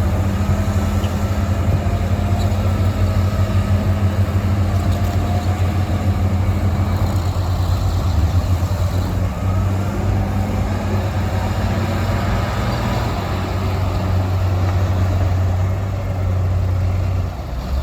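Diesel engines of heavy earthmoving machinery (dump trucks and a bulldozer) running with a steady, deep drone.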